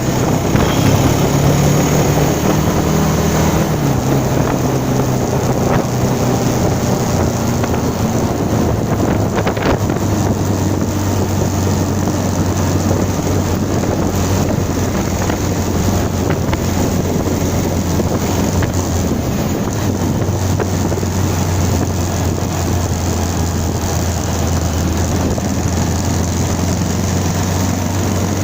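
Motorcycle engine running steadily under way, with wind rushing over the microphone. The engine note is higher for the first few seconds, drops about four seconds in, then holds steady.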